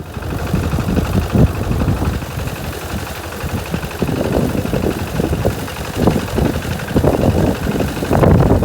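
Engine of a small homemade rice-harvesting machine running, its level rising and falling unevenly.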